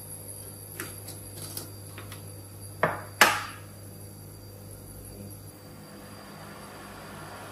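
Light clicks, then two sharp knocks about three seconds in, the second the loudest with a brief ring, as a plastic sugar jar is opened and handled over a stainless steel pot. Near the end comes a soft steady hiss as sugar pours into the pot.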